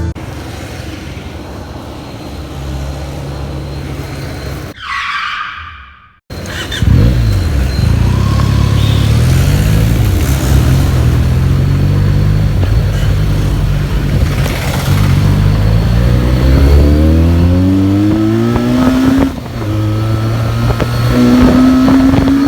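Benelli TNT 300's parallel-twin engine on its stock exhaust, accelerating through the gears. After a quieter opening and a brief cut-out, it turns loud about seven seconds in, and its pitch climbs, drops back at a gear change and climbs again.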